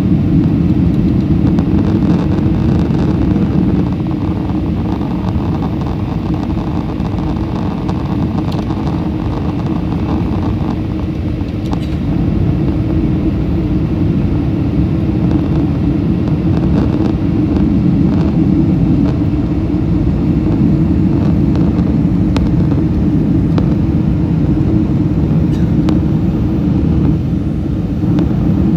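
Steady low rumble of cabin noise inside a Boeing 747-400 with four Pratt & Whitney PW4056 engines. The rumble eases a little about four seconds in and swells again around twelve seconds.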